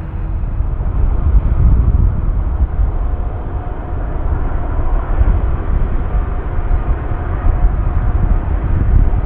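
Jet airliner engines rumbling steadily as a large plane comes in to land, a loud low rumble with a faint steady whine on top.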